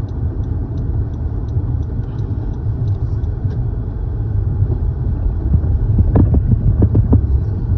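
Car cabin road noise: a steady low rumble of the engine and tyres. For the first few seconds it comes with a faint, quick, regular ticking of the turn signal as the car takes the exit ramp, and a few knocks near the end.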